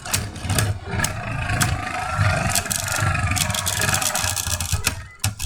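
Two Beyblade spinning tops, one of them a 3D-printed Myth Ultras, whirring as they spin in a plastic stadium, with many sharp clicks as they knock into each other. The whir fades near the end.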